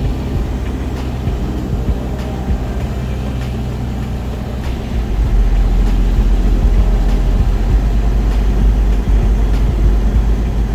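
Piper PA-28 light aircraft's piston engine running steadily with a low, even drone. It grows louder about five seconds in.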